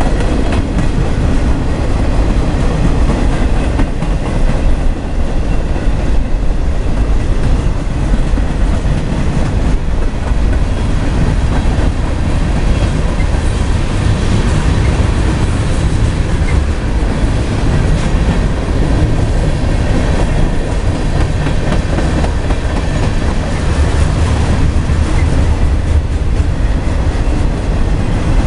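Freight cars of a CSX mixed freight train rolling past close by, steel wheels on the rails making a loud, steady rumble.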